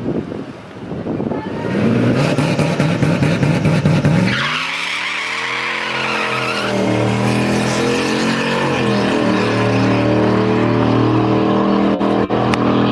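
Turbocharged 4.6-litre two-valve V8 in a Ford Thunderbird revving up, with tire squeal about four seconds in. The engine then holds steady at high revs while the tires spin: a burnout to warm the drag radials.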